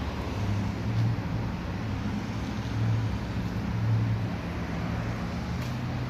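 Car engine running through a dual exhaust at a low, steady note, swelling briefly about a second in and again around three and four seconds.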